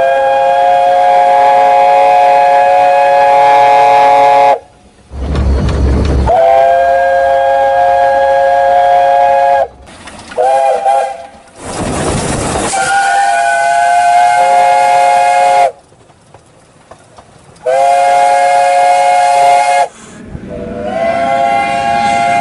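Talyllyn Railway steam locomotive whistles sounding one after another: several long held blasts and a pair of short toots, some preceded by a brief rush of steam.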